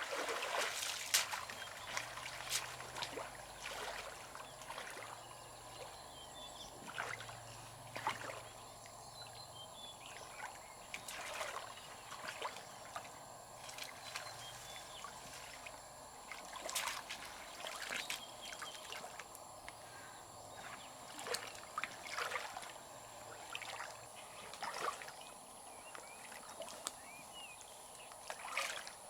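Shallow river water trickling and flowing steadily, with scattered brief clicks and splashes.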